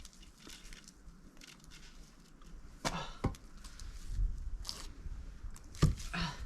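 An axe striking a log of firewood being split: a few sharp knocks, the loudest just before the end, with a low rumble beneath them in the second half.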